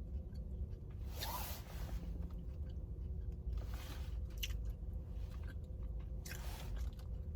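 Close-miked chewing of a soft McDonald's donut stick taken in one bite, with a few louder wet mouth sounds every couple of seconds over a low steady hum.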